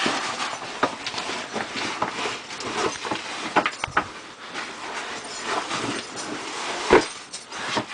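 Irregular scraping and knocking of a climber and his gear against rock as he works his way up a narrow rock chimney, with a sharp knock about seven seconds in.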